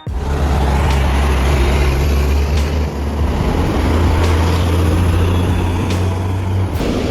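Heavy vehicle engine running with a steady low drone that drops away near the end, with a few faint knocks.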